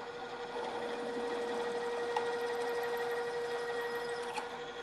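Geared drilling machine running at a lower spindle speed with a steady hum, its 1/2-inch drill cutting into the part smoothly without chatter. There are a couple of brief clicks.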